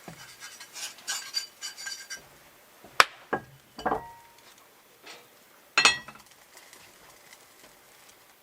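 Hard objects clinking and knocking together with short ringing tones: a quick run of light clinks, then three separate sharp knocks, the last the loudest.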